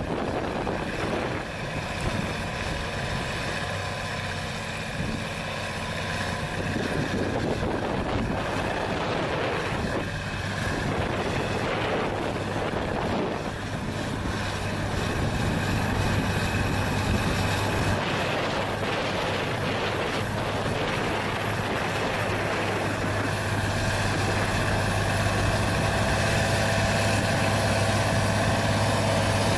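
Heavy vehicle engine running steadily, with a strong low hum and an abrupt change in the sound about two-thirds of the way through.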